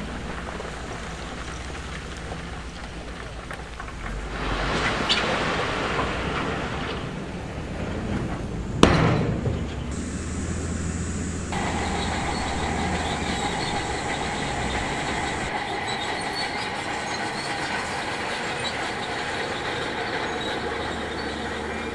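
Shantui DH17C2 crawler bulldozer working, its engine running steadily with its steel tracks squealing and clanking. There is a single sharp bang just before the middle, the loudest sound, and after it a steady set of high squealing tones.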